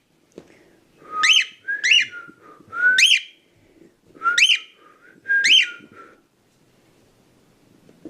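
A pet bird whistling five short notes, each sliding sharply up in pitch and dropping back, spaced about a second apart, then falling quiet for the last two seconds.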